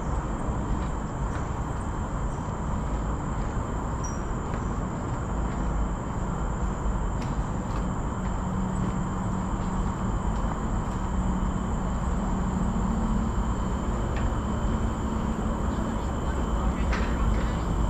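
Steady outdoor background rumble with a low hum that grows a little stronger about halfway through, and a faint steady high tone above it.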